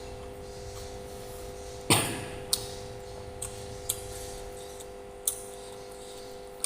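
Eating sounds: a sharp knock about two seconds in, then four or five short clicks a second or so apart, over a steady low hum.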